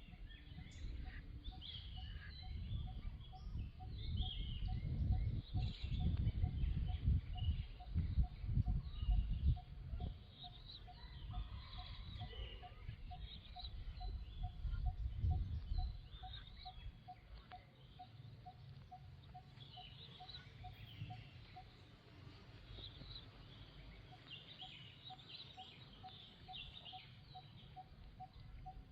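Small birds chirping on and off, over a low rumble that is loudest in the first half. A faint, even pulse repeats about three times a second and stops about three-quarters of the way through.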